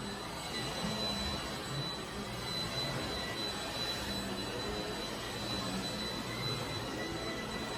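Shark Rocket stick vacuum running steadily while vacuuming carpet: an even motor-and-airflow rush with a thin steady high whine.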